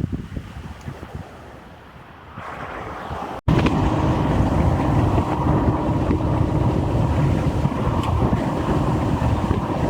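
Steady rumble of a moving vehicle with wind buffeting the microphone. A hard cut about a third of the way in; after it the rumble is louder, with a faint steady hum.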